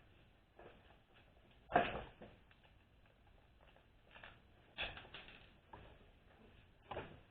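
Scattered clinks and knocks of hand tools and bolts being worked on a 4L60E automatic transmission case while the pump's retaining bolts are fitted. There are about half a dozen separate knocks, the loudest about two seconds in.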